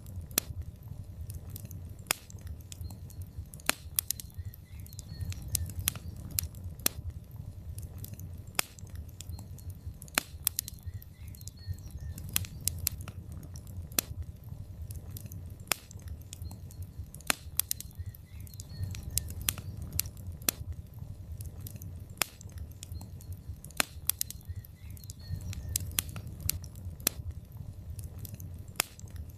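Log fire in a fireplace crackling: irregular sharp pops and snaps of burning wood, several a second, over a steady low rumble of the flames.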